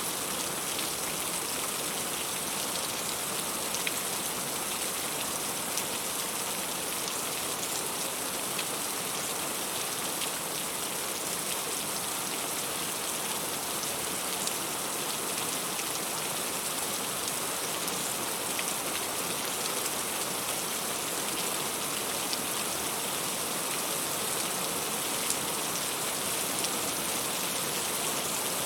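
Heavy rain falling steadily, with the patter of drops striking fruit and leaves. A steady hiss with scattered individual drop hits.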